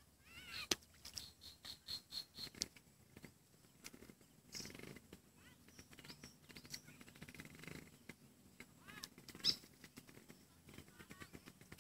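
Faint bird chirps over a quiet outdoor background, with a quick run of light ticks in the first few seconds and a brief louder chirp near the end.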